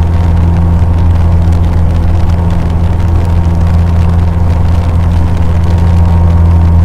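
Cessna 150's four-cylinder Continental O-200 engine and propeller droning steadily, heard from inside the cabin.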